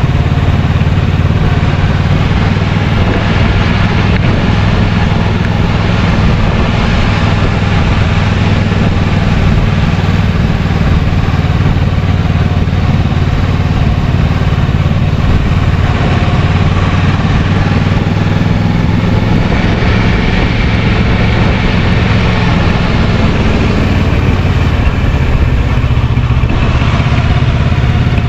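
Kawasaki Versys 650's parallel-twin engine running at a steady pace while the motorcycle is ridden.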